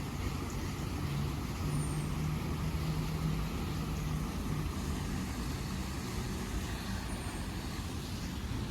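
Low, steady rumble of a road vehicle's engine, with a hum that is strongest for a few seconds about a second and a half in, then eases off.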